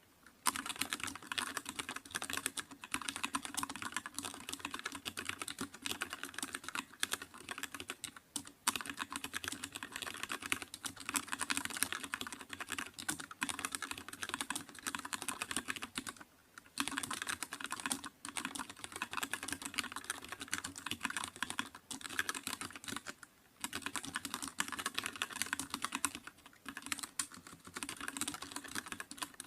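Computer keyboard typing: a fast, continuous run of key clicks, broken by a few short pauses where the typing stops for a moment.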